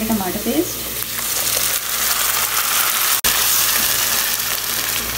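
Onions and ginger-garlic paste sizzling in hot oil in a nonstick pan as they are stirred. About three seconds in, after a brief break, the sizzle gets a little louder as tomato paste fries in the pan and is stirred with a spatula.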